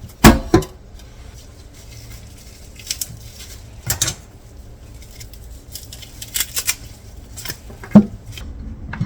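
Kitchen clatter: sharp knocks and clinks of things being set down and handled, scattered irregularly, the loudest near the start and about eight seconds in.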